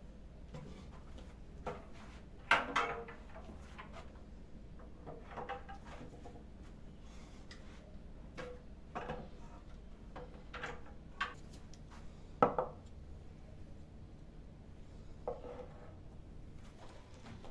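Scattered knocks and clinks of household items being handled and set down while cleaning, with two sharper knocks standing out, one a few seconds in and one past the middle.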